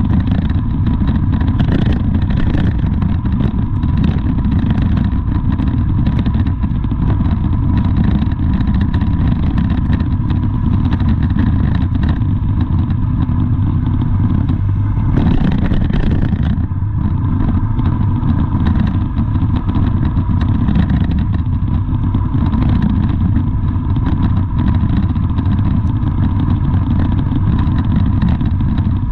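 Motor vehicle running, a steady low rumble with a faint steady whine above it.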